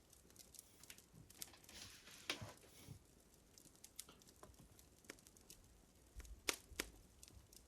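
Crackling fire: faint, irregular small pops and snaps, with a louder pop about two seconds in and two sharp pops in quick succession near the end.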